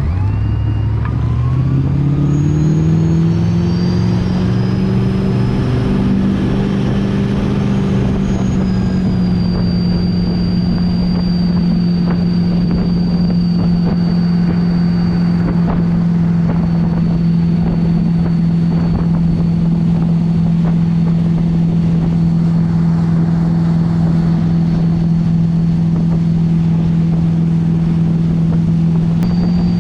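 Motorboat engine opening up to pull a rider out of the water: the engine note climbs over the first several seconds, then runs steadily at speed under load.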